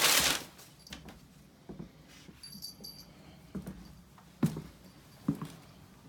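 A pet moving about a room: a short, loud breathy burst right at the start, then scattered soft taps about once a second, with a brief high metallic jingle like collar tags about two and a half seconds in.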